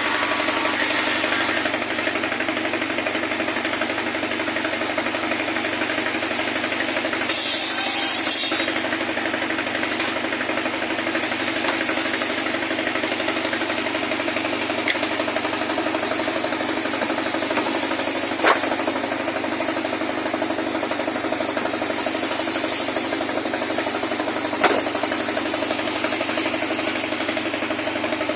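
Pallet-timber cutting machine running steadily with a motor drone. A louder rasping burst lasts about a second, roughly a quarter of the way in, and a few single sharp knocks come later.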